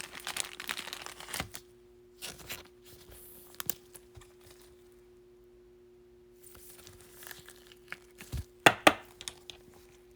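Foil wrapper of a Bowman baseball card pack being torn and crinkled while the cards are handled. It comes in rustling spells, with two sharp crackles near the end that are the loudest moments.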